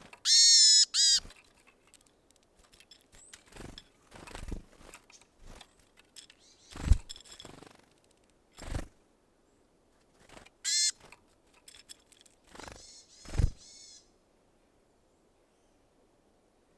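A wild bird at a feeder calling: two short, harsh calls right at the start and another about eleven seconds in. Between them come scattered knocks and thumps, the loudest near seven and thirteen seconds.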